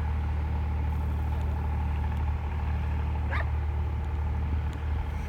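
A dog gives one short, rising yip about three seconds in, over a steady low rumble.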